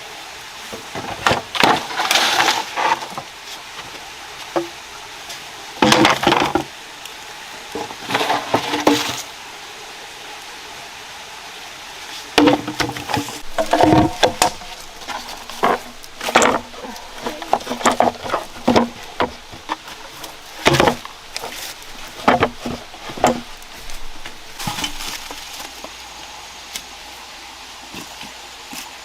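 Irregular clusters of wooden knocks and light clinks from handwork, with short quieter gaps between.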